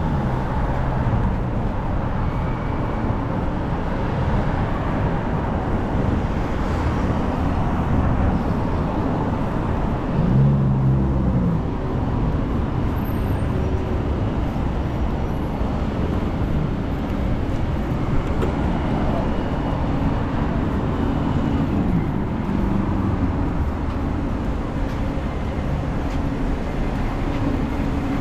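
City street traffic: steady noise of road vehicles running and passing. About ten seconds in, a short louder pitched sound stands out.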